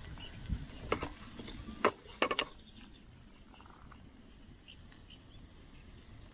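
A few sharp clicks and knocks in the first couple of seconds, a pair close together near the middle, then a faint steady background.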